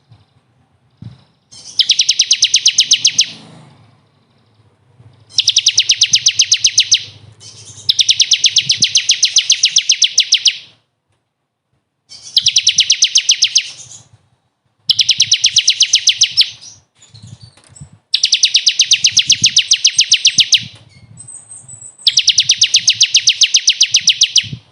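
A small songbird singing a rapid, even trill of sharp high notes, in seven bursts of about two seconds each with short pauses between.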